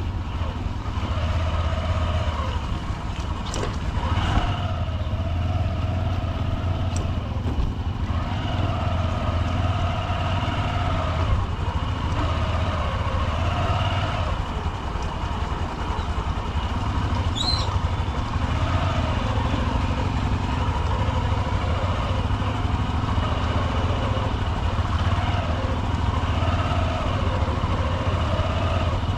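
Honda SP125's 124 cc single-cylinder engine running at low speed in traffic, its pitch rising and falling with gentle throttle changes, amid street traffic noise. A brief high chirp comes about two-thirds of the way through.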